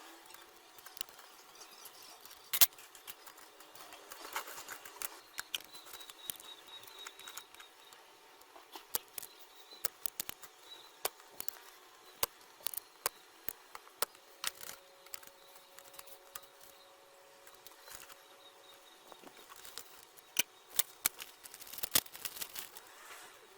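Irregular small clicks and taps, as of hand tools and parts being handled on a workbench, with one sharper knock about two and a half seconds in and a flurry of clicks near the end.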